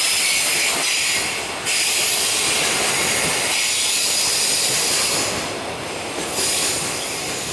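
Container wagons of a freight train rolling past on the rails, with a steady high-pitched wheel squeal. The sound thins out about five and a half seconds in as the last wagon goes by.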